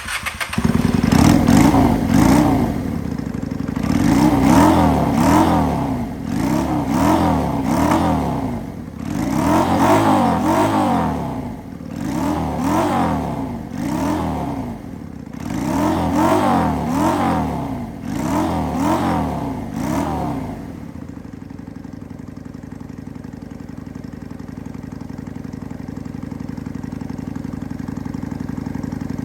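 Honda Shadow 400 Slasher's V-twin engine catching, then revved in a series of throttle blips, each rising and falling in pitch, for about twenty seconds before settling to a steady idle.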